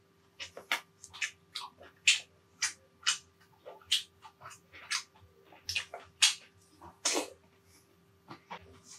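Close-miked eating sounds: chewing and lip-smacking, a quick irregular run of short wet smacks, about two a second, with a brief lull near the end.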